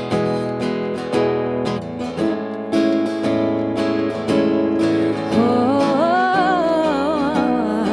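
Acoustic guitar strumming chords in a steady rhythm. About five seconds in, a wordless sung line with vibrato comes in over it, rising and then falling back.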